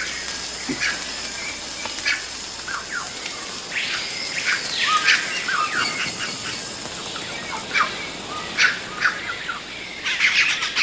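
Rainforest birds calling: scattered chirps and short whistled calls, with one rising-and-falling call about four seconds in and a quick flurry of calls near the end, over a faint steady high-pitched tone.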